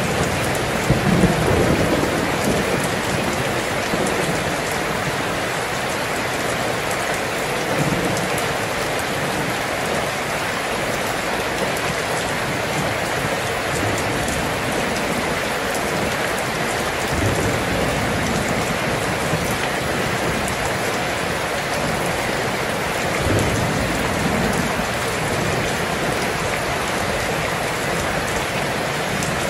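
Steady heavy rain falling, with low rumbles of thunder now and then, the strongest in the first couple of seconds.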